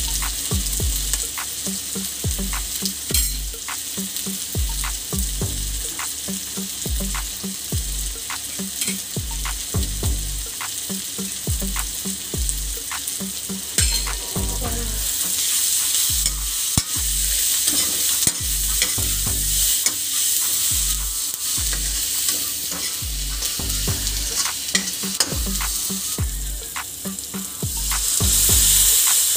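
Onions, tomatoes and peppers sizzling in oil in an iron kadhai, with a spoon stirring and ticking against the metal. Near the end the sizzle grows louder as water is poured into the hot pan.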